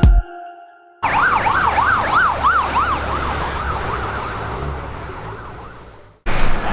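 Emergency vehicle siren on a fast yelp, rising and falling about four times a second over traffic noise, slowly fading as it moves away. A louder rush of noise comes in abruptly near the end.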